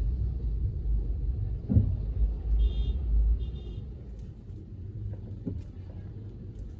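Low rumble of a car moving through town traffic, loudest for the first few seconds and then easing off, with a single thump. Two short high beeps come about a second apart.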